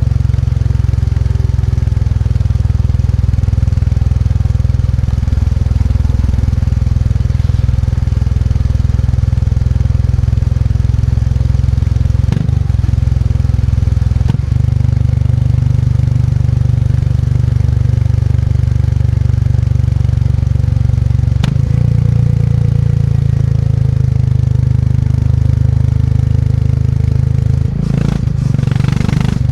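Motorcycle engine running steadily while riding, with a deep, even engine note and a few short clicks along the way. Near the end the engine note dips and then rises again.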